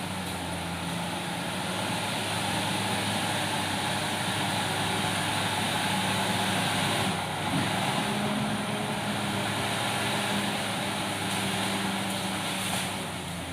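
Komatsu D68ESS crawler bulldozer's diesel engine running under working load, growing louder for most of the stretch and easing off near the end.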